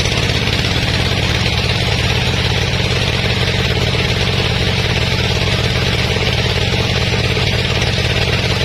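Sawmill engine running at a steady speed, an even unbroken drone.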